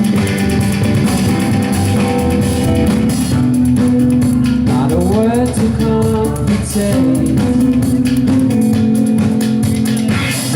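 Live rock band playing a passage without lyrics: guitar and bass over drums, with a few rising pitch glides about halfway through.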